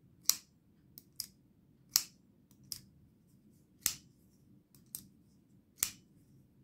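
Folding pocket knife being opened and closed by hand, its blade snapping open and shut in sharp clicks roughly once a second, some louder than others.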